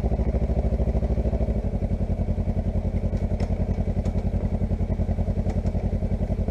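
Kawasaki Versys X300's 296 cc parallel-twin engine idling steadily through an aftermarket Akrapovič-copy slip-on muffler, with an even, throaty pulse.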